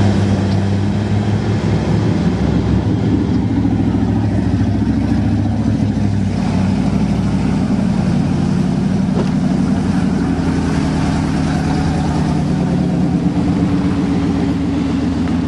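Pickup truck engine running steadily under load for the whole stretch, its pitch shifting only slightly.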